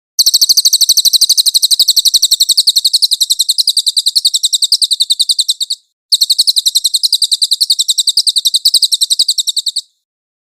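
Recorded songbird call used as tutor audio: a long, fast trill of sharp, high-pitched repeated notes at about ten a second, breaking off briefly after about six seconds, then a second, shorter run.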